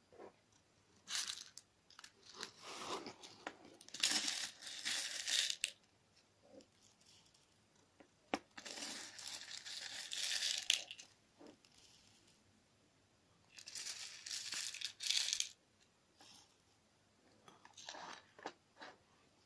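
Clear slime mixed with crunchy sand being squeezed and kneaded by hand, crackling and crunching in about six bursts of a second or two each.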